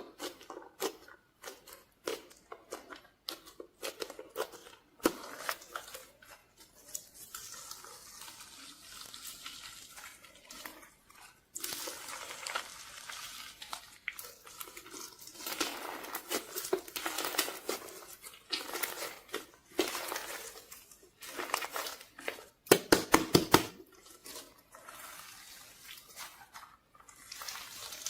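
Glittery slime being stirred and squeezed by hand. It squelches wetly, with many quick sticky clicks and pops. About two-thirds of the way through comes a quick run of loud pops.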